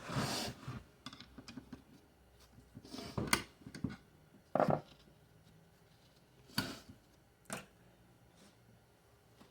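Parts of a 4L60E transmission oil pump and hand tools being handled on a bench: about six separate knocks and clinks spaced out over several seconds, as the pump is taken apart to get at the slide.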